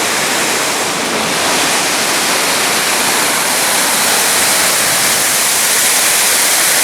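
Loud, steady rushing of water, like a waterfall or fast stream.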